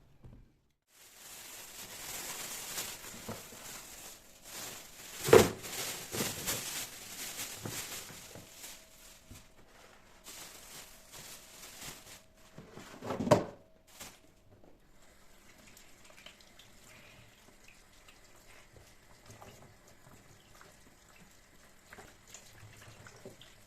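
Water running from a tap into a sink, with two sharp knocks about five and thirteen seconds in. Then the water stops and only small clicks and handling sounds remain.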